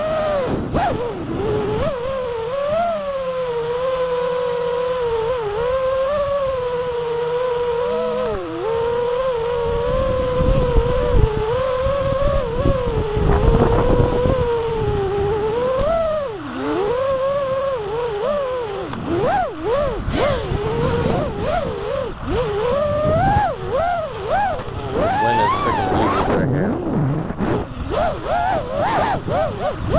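FPV quadcopter's brushless motors and propellers whining continuously, the pitch rising and falling with throttle. The pitch holds fairly steady at first, then swoops up and down rapidly through the second half.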